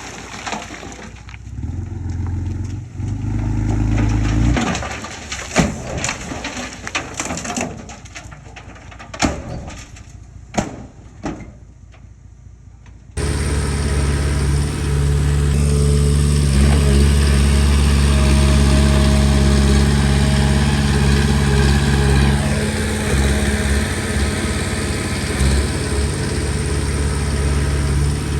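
Scattered sharp knocks and clicks over a quieter background, then, about halfway through, a sudden switch to a Komatsu D20P bulldozer's diesel engine running steadily.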